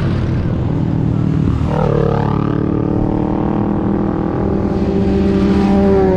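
Motorcycle engines running, with a sharp drop in pitch about two seconds in, then a steady engine note that rises slightly near the end.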